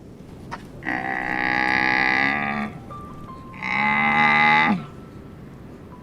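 Cow mooing: two long calls, the second shorter and dropping in pitch at its end.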